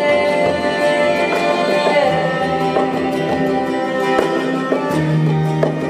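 Live acoustic band music: plucked and strummed guitars under long-held sung harmonies.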